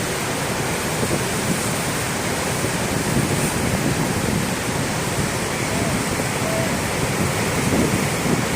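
Niagara Falls: the steady, even rush of the falling water.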